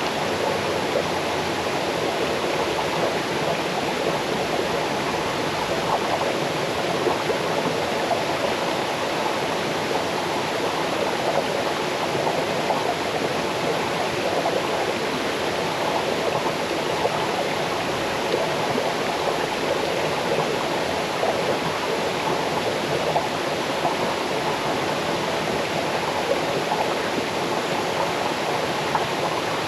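Small waterfall cascading over rocks into a stream, a steady rush of falling and splashing water.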